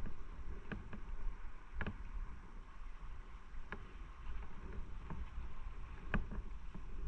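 Motorcycle on the move: steady low rumble with wind noise, broken by a few sharp ticks about a second in, near two seconds, near four and about six seconds in.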